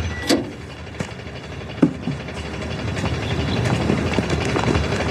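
A train running, a steady mechanical rumble with sharp clanks early on and many small rattling clicks, typical of railway cars.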